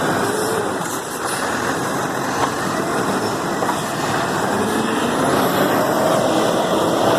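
Garbage truck running, a steady, loud mechanical rush without a clear rhythm.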